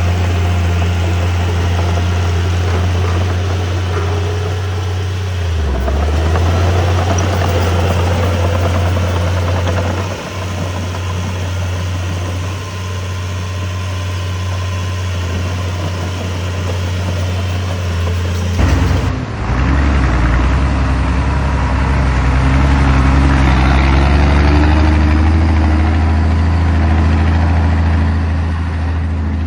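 Heavy diesel engine of earthmoving equipment, running steadily with a strong low hum. About two-thirds of the way in the sound changes abruptly, and the engine's pitch then climbs gradually as it revs up.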